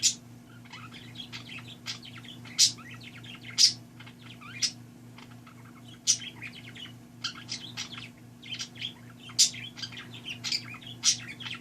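Caged pet cockatiels and parakeets chirping: soft twittering throughout, broken by several sharp, loud chirps, over a steady low hum.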